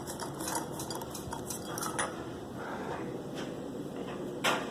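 A few light clinks and clicks, the loudest near the end, over steady background noise.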